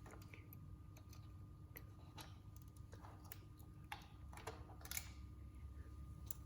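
Faint, irregular light clicks and taps of small scooter parts and tools being handled, the sharpest click about five seconds in, over a faint steady hum.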